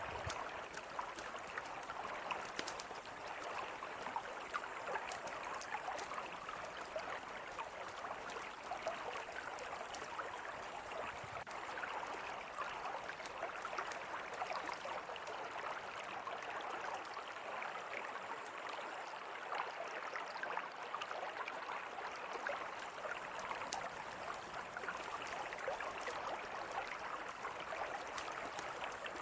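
Mountain river flowing steadily, with a campfire crackling: scattered sharp pops and snaps over the even rush of water.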